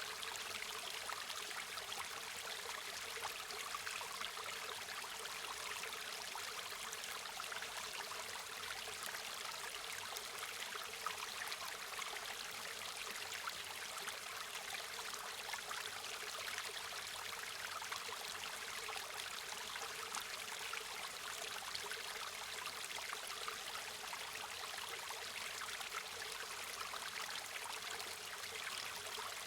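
River or stream water flowing and splashing steadily, a constant rushing hiss with fine trickling detail.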